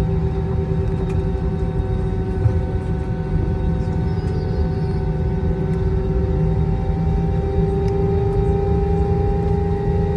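Airbus A321 jet engines and cabin noise heard from inside the cabin: a steady low rumble with a hum of several even tones, one rising slightly in pitch about seven seconds in.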